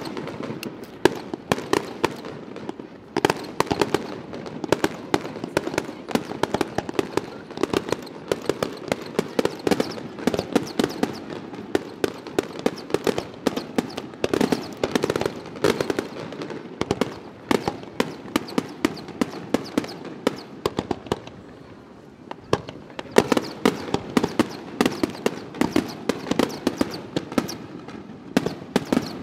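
Aerial firework shells bursting in quick, dense succession, a continuous run of sharp bangs and crackle, thinning briefly about three-quarters of the way through before picking up again.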